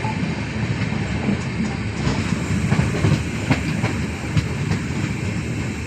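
Steady low rumble of a moving vehicle heard from inside, with scattered clacks and knocks.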